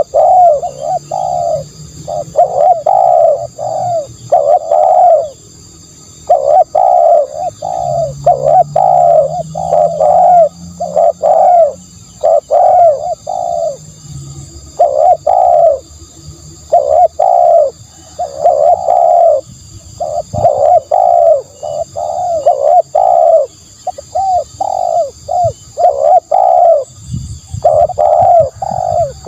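Spotted dove cooing loudly, repeating phrases of short, deep coo notes with brief pauses between phrases.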